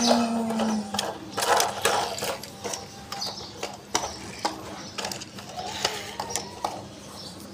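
Plastic toy vehicles being handled, giving irregular clicks and rattles, over a faint steady hum.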